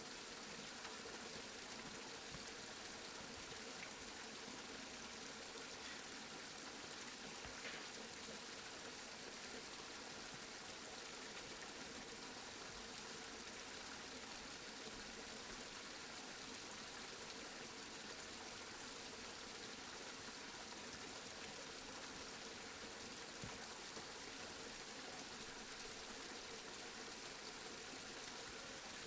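Steady rainfall, an even hiss of falling rain with a few faint drop ticks.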